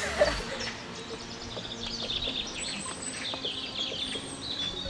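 Garden birds singing: a busy run of short, high chirps and trills.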